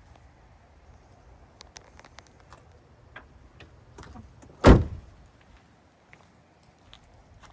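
A vehicle door of the 2002 Chevrolet Avalanche pickup shut once with a single loud thud about halfway through, after a few light clicks of handling.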